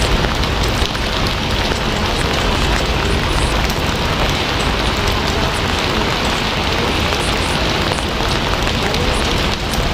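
Steady rain falling and pattering on a surface, a dense even hiss with many small drop impacts.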